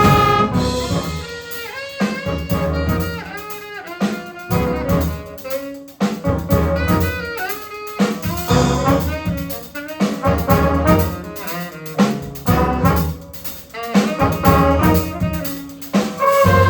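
Jazz band playing: a single horn carries a melodic line with bent notes over drum kit and double bass, and the full brass section comes back in near the end.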